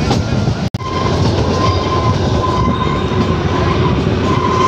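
Narrow-gauge Kalka–Shimla toy train running, a steady rumble of wheels and carriages heard from an open carriage window. The sound cuts out for an instant under a second in, and a faint thin whine runs on from about a second in.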